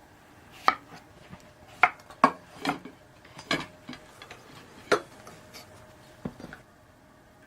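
Dishes and utensils being handled: a scattered series of sharp clinks and knocks, about seven in all, the loudest around two seconds in.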